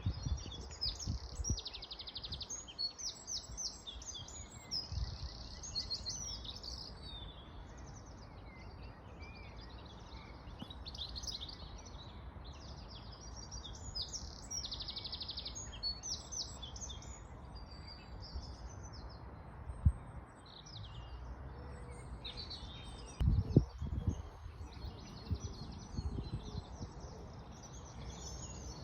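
Several songbirds singing and chirping at once in quick overlapping trills and phrases, over a steady low background hiss. A few low thumps stand out, one about two-thirds of the way in and a cluster shortly after.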